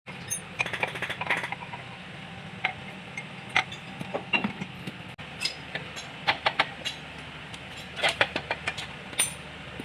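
Irregular metallic clinks and taps of tools and engine parts being handled, over a steady low hum.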